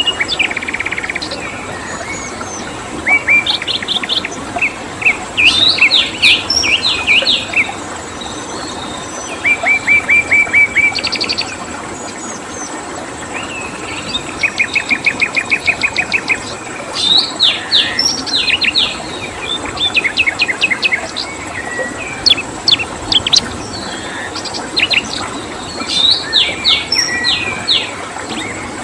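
Small songbirds chirping and singing in bursts, with runs of rapid trilled notes at about ten a second, over a steady hiss of running water and a faint, thin high tone.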